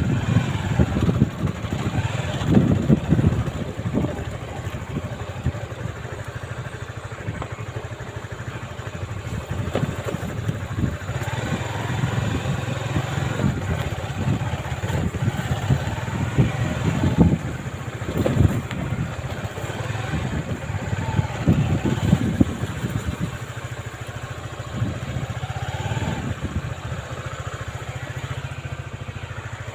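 Wind buffeting the camera microphone on a moving motorcycle, coming in uneven gusts over the steady low running of the bike's engine, easing a little near the end.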